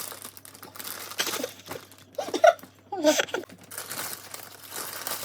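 Plastic and cardboard packaging of a LEGO set crinkling and tearing as it is opened and handled, in uneven bursts of rustling.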